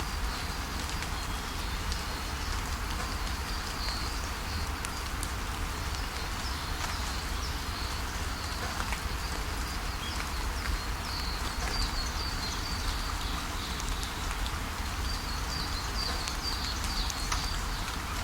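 Steady rain falling with scattered drips, and small birds chirping in runs of quick high notes that grow busier in the second half.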